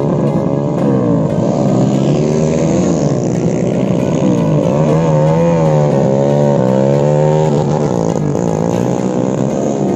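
Small four-stroke road-race motorcycle engines (bored-up Honda Supra 150cc) running hard. More than one engine can be heard, their pitch rising and falling as they rev and shift.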